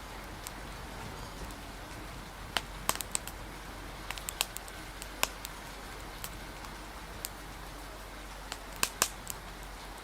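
Wood fire crackling: sharp, irregular pops, bunched about two and a half to three seconds in, around four to five seconds, and near the end. Underneath is a steady hiss of rain.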